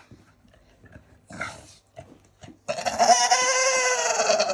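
A dog's long, drawn-out whining howl, about two seconds, starting a little past halfway with a slightly rising then falling pitch. It is the kind of complaining 'talk' a Staffordshire Bull Terrier makes. A few faint short sounds come before it.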